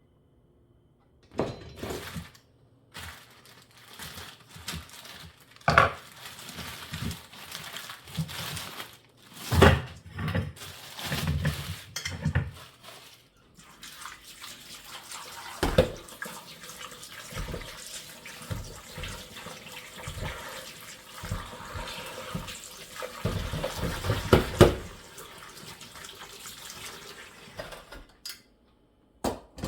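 Water running from a kitchen tap into a sink, with knocks and clatter of things being handled under it. It stops shortly before the end.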